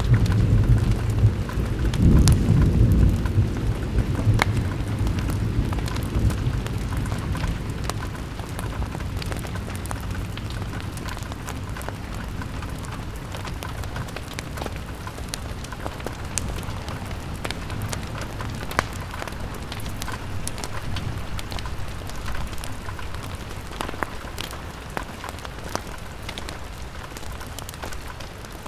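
Rain on a window with a low roll of thunder that swells in the first couple of seconds and fades away over about eight seconds. Under it runs a steady rain hiss with scattered sharp ticks.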